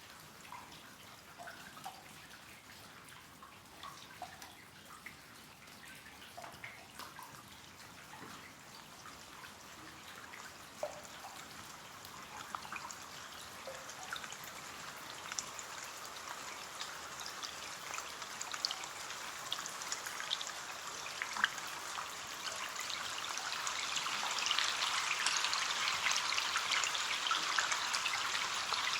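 Rain on a window pane: scattered single drops at first, building steadily into heavier, denser rain through the second half.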